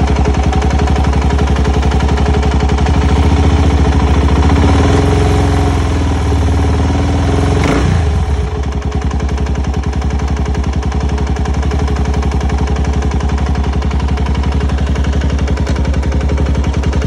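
A 2004 Suzuki LTZ400 ATV's single-cylinder four-stroke engine running with a knocking noise. The revs rise and fall about halfway through, then it settles to a steady idle.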